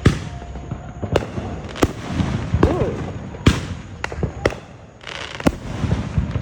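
Fireworks going off: a series of sharp bangs at irregular intervals, about one a second, over a low rumbling background.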